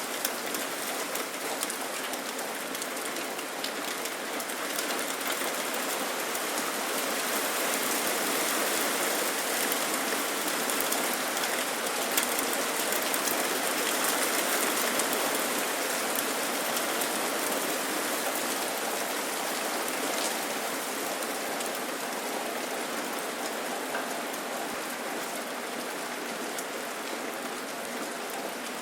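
Steady rain falling, a dense hiss of drops with fine pattering ticks, swelling a little in the middle.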